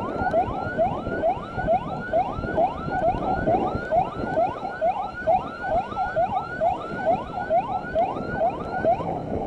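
Escort motorcycle's electronic siren in a fast yelp: a rising sweep repeated about three times a second, over a steady low rush of noise.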